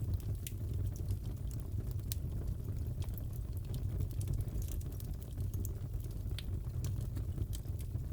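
Wood fire crackling in a fireplace: a steady low rumble with scattered sharp pops and crackles, several a second.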